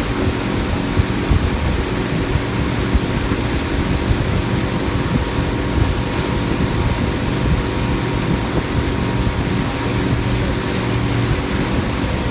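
Pontoon boat's outboard motor running steadily at towing speed, a constant hum under a rush of wind and water.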